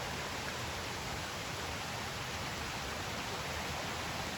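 Steady rushing of water from a nearby waterfall and cascades, an even hiss with no breaks.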